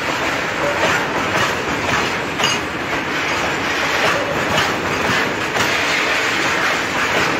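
Freight train of petroleum tank wagons rolling past, a steady rumble of steel wheels on rail with a repeated clickety-clack as the wheels cross rail joints.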